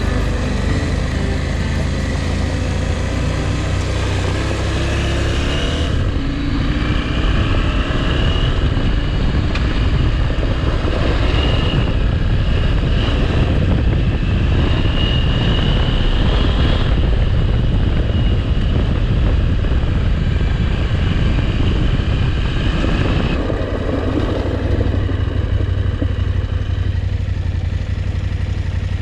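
Motorcycle engine running steadily while riding. A rough rushing noise of wind and tyres builds over it for most of the middle stretch, then the engine's note comes through clearly again near the end.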